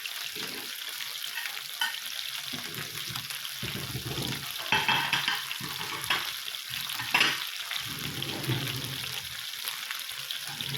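Chicken kebabs sizzling in oil on a hot indoor grill, a steady hiss, with a few sharper clatters about five and seven seconds in as the skewers are moved about.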